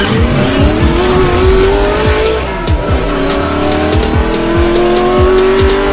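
Car engine accelerating hard through the gears: its pitch climbs, drops at a gear change about three seconds in, then climbs again. It is mixed over electronic music with a steady kick-drum beat.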